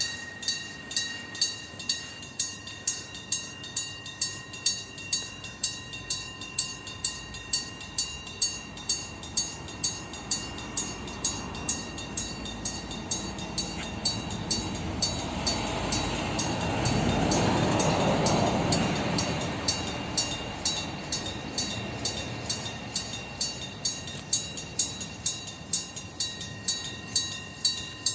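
TCDD DE 24000-class diesel-electric locomotive passing while working in notch 8, hauling a container freight train over points; its noise builds to a peak about two-thirds of the way through, then fades. An even, repeated ringing about one and a half times a second goes on behind it throughout.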